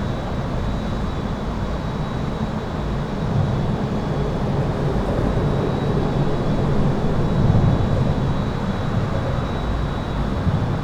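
Highway traffic heard from under an overpass: a steady low rumble of tyres and engines that swells in the middle as vehicles pass, with a thin steady high tone running over it.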